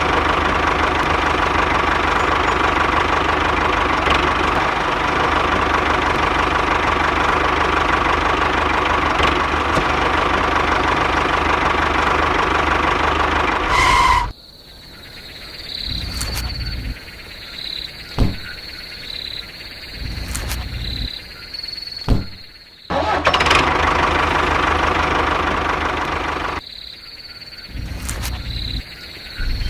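Small engine of a DIY mini tractor running steadily, then cut off suddenly about halfway. A quieter stretch follows with a steady high chirr and a few sharp knocks. The engine sound comes back for a few seconds before cutting out again.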